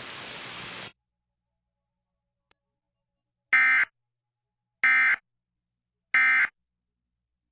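Emergency Alert System end-of-message signal: three identical short bursts of digital data squawk, about 1.3 seconds apart, marking the end of a tornado warning bulletin.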